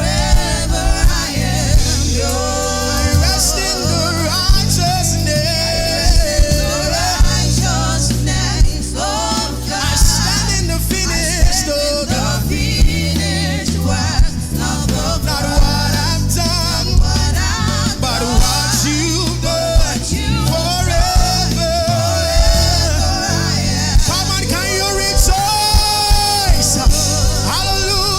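Live gospel worship music: singing over a band with bass, keys and drums.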